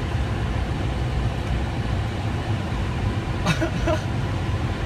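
Steady road and engine rumble of a car driving on the highway, heard from inside the cabin, with one brief click about three and a half seconds in.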